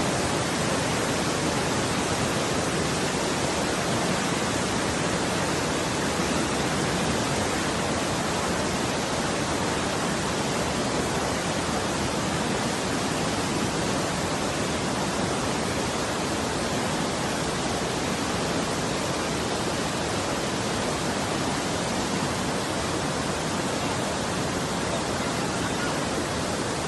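Floodwater rushing in a steady, unbroken wash of noise.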